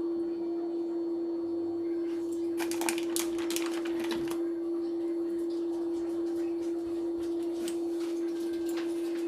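A steady pure tone sounds throughout. Over it comes a run of small metallic clicks and clatter from about two and a half to four and a half seconds in, with a few more later, as olives are pitted with a garlic press.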